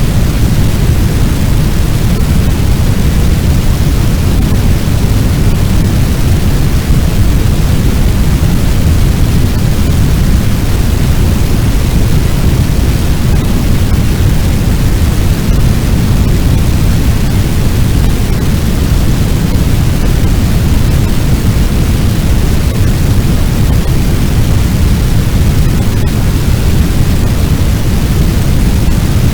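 Fire sound effect: a steady, loud rush of noise, heaviest in the low end like the roar of a large blaze, with no distinct crackles or changes.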